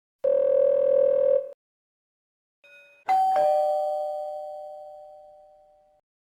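A harsh electronic buzzer sounds for just over a second, like a game-show wrong-answer buzzer. About three seconds in, a single bell-like ding rings out and fades slowly.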